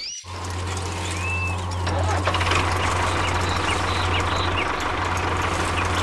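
Small electric motors of a miniature model tractor and seed planter switched on with a click, then whirring with a steady hum as the rig runs over sand. Bird chirps come and go above it.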